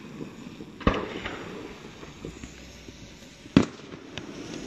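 Aerial fireworks shells bursting: two sharp bangs about two and a half seconds apart, the first about a second in, each followed by fainter crackling.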